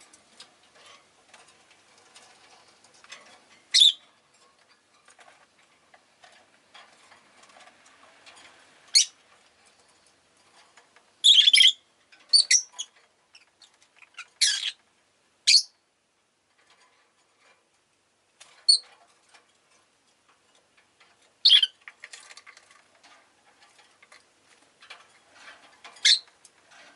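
Rosy-faced lovebirds giving short, shrill calls, about nine spread irregularly, with several close together around the middle. Faint, irregular ticking runs underneath.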